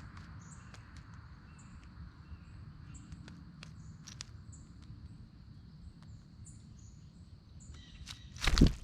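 Small birds giving many short, high chirps over a steady, thin insect drone, with scattered sharp clicks and a low rumble; a loud, brief thump near the end.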